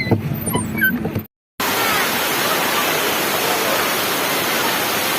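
Birds chirping over a low hum, then a sudden cut, after which the steady roar of a waterfall takes over, with a few faint bird chirps.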